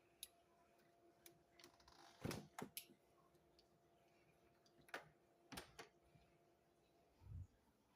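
Near silence broken by a few soft clicks and knocks, and one dull low thump near the end.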